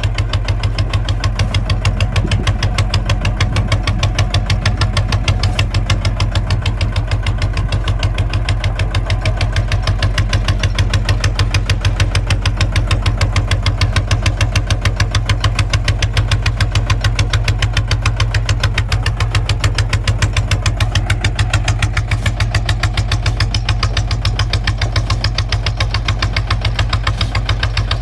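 Kubota ZT155 single-cylinder diesel engine running at a steady speed, with a fast, even knock on every firing stroke.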